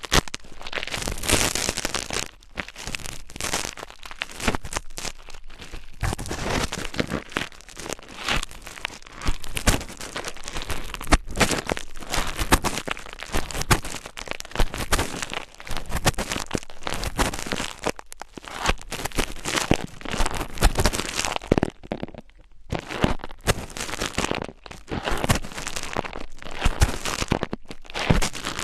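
Close-miked ASMR scratching and crinkling: dense, irregular crackly strokes right on the microphone, with a short pause a little after the 21-second mark.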